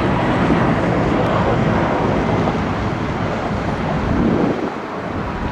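Steady noise of a departing jet airliner's engines, easing slightly near the end, with some wind on the microphone.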